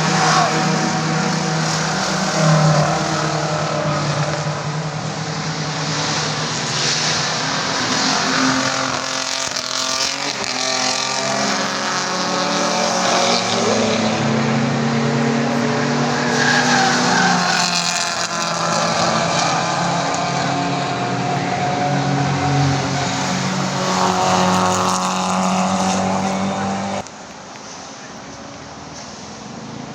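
Classic race cars' engines at high revs on a circuit, several overlapping, their pitch rising and falling as they accelerate, shift and pass. The sound drops off sharply near the end.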